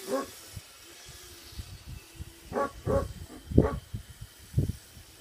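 A dog barking in short single barks: one right at the start, then four more spread over the second half, the loudest about three and a half seconds in.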